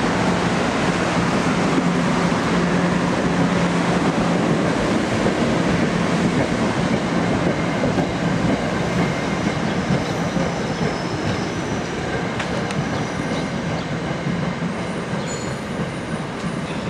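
NJ Transit commuter train rolling out of the station, its wheels and cars making a dense, steady rumble that slowly fades. A low hum early on dies away, and thin high-pitched wheel squeals come in over the second half.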